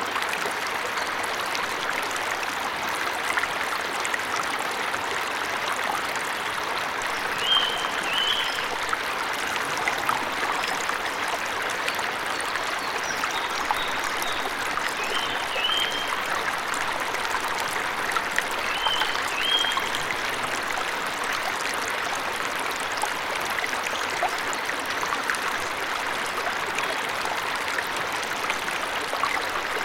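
Steady rush of a forest waterfall. Short high bird chirps come over it in quick pairs, about eight seconds in, around sixteen seconds and again near twenty seconds.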